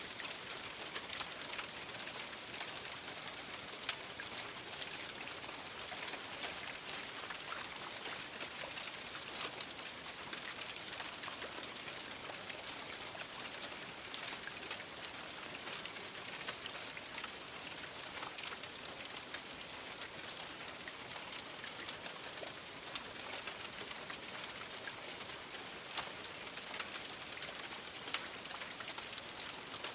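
Steady rain falling: a continuous hiss of many drops pattering on a surface, with an occasional louder single drop hit standing out.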